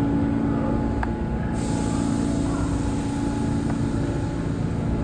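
New York City subway train in the station: a steady low rumble with a hum, and a high hiss that sets in suddenly about a second and a half in.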